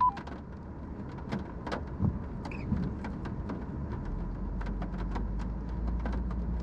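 Tow vehicle's engine running at low speed while it backs a travel trailer, its low hum getting louder about four seconds in, with scattered small clicks and knocks and a short beep at the very start.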